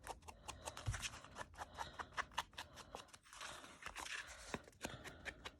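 Paper edges being scraped with a handheld distressing tool: a faint, quick run of short scraping strokes, several a second, rubbing the white edging off the paper.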